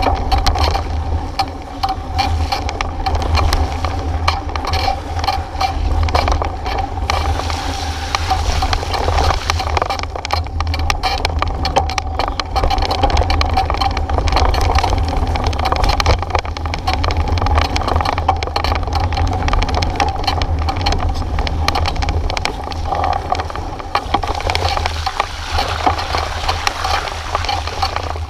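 Wind buffeting the microphone with a continuous low rumble, over constant rapid rattling and clatter from a bike being ridden.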